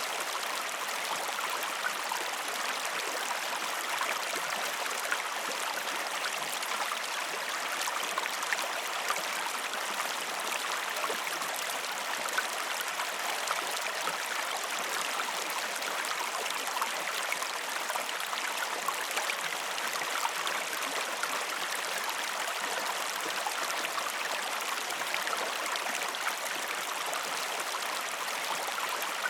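River water flowing: a steady rushing and babbling of a stream.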